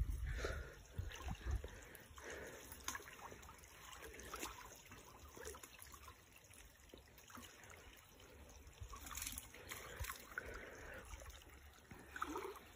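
Faint, irregular trickling of shallow stream water.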